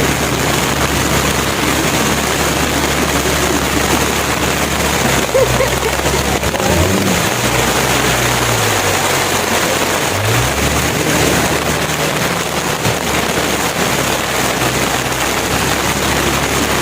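A tour boat's motor running steadily under a loud, constant hiss of wind and water, its pitch dropping and rising again for a few seconds near the middle as the throttle changes.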